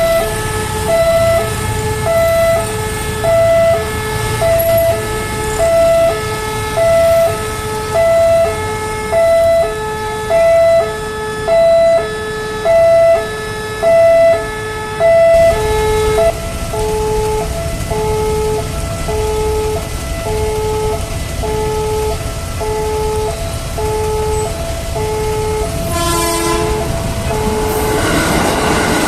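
Electronic railway level-crossing alarm sounding a repeating two-tone chime, a higher and a lower note alternating about once a second; about halfway through, the higher note fades and the lower one dominates. Near the end a short tone sounds, and then the rising rumble of an approaching train.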